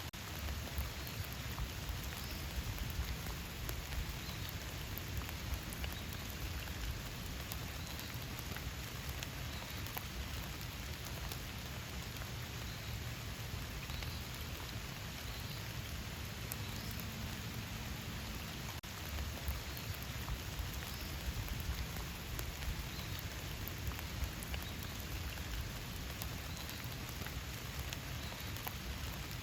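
Steady rain falling, with single drops ticking now and then.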